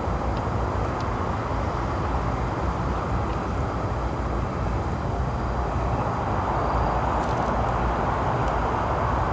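Steady outdoor rushing noise, a low rumble with a few faint ticks and no clear single source.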